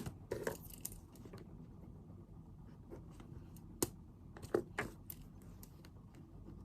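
Pen writing on paper: short scratchy strokes in two clusters, with a few sharp taps, over a steady low background hum.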